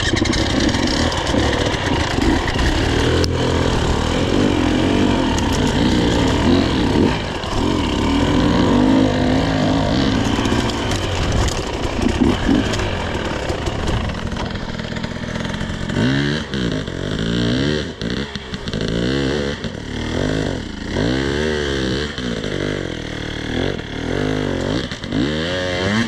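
Dirt bike engine running hard under load, then revving up and down again and again, about once a second, through the second half.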